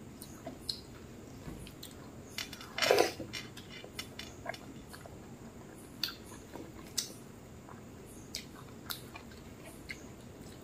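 Close-miked chewing and wet mouth clicks while fingers mix rice and lentil dal on a plate, with one louder burst about three seconds in.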